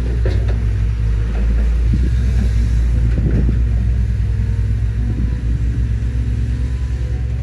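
Heavy diesel engine running with a deep, steady rumble, with a few brief louder surges in the first half.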